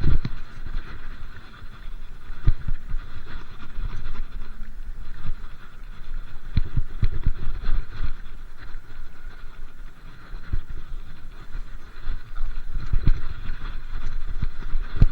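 Wind buffeting the microphone with rumble and irregular low thumps from riding a bicycle, over a steady rolling noise.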